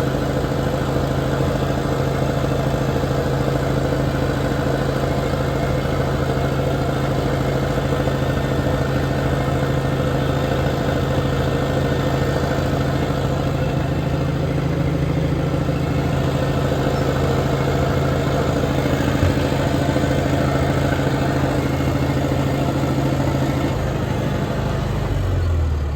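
Heavy machine's engine running steadily under throttle, then throttled down about a second before the end.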